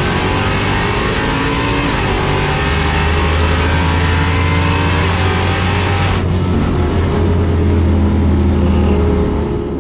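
Dodge Demon's supercharged V8 running loudly at a mostly steady pitch, the sound going duller about six seconds in.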